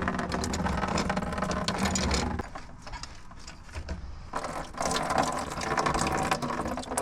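Metal hand tools clinking and rattling as someone digs through them for channel-lock pliers. There are two bouts of clatter with a short lull between them.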